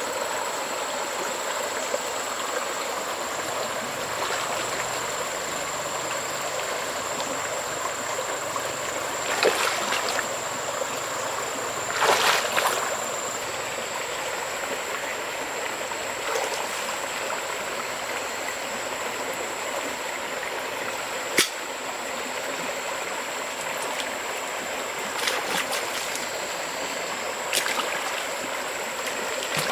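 Mountain stream water running steadily, with a thin steady high-pitched whine throughout. A few brief louder sounds stand out over the water, the sharpest a single click about two-thirds of the way in.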